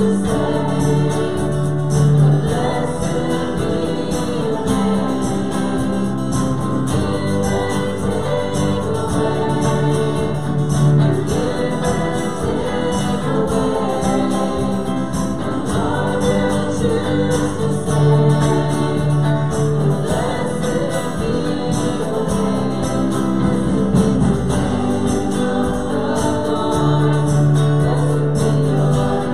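Congregation singing a worship song with instrumental accompaniment, held bass notes under the voices.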